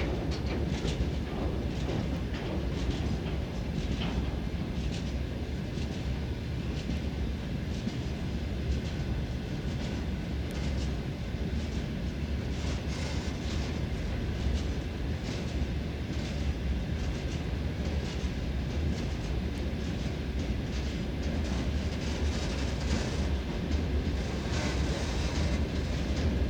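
Freight train rolling past with a steady low rumble, its wheels clicking over the rail joints.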